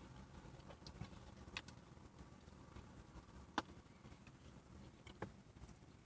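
Near silence with faint chewing, broken by three small mouth clicks, the middle one the loudest.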